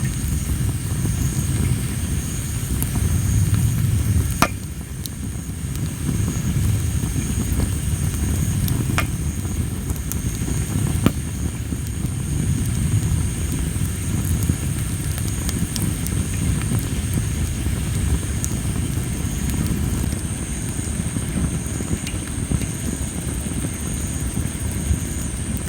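Campfire of tree-of-heaven (Ailanthus) wood burning with a steady low rumble of flames and a few sharp pops, the loudest about four seconds in and single ones scattered after; the uploader puts the loud popping down to wood that perhaps held a lot of moisture. Insects trill steadily and high-pitched throughout.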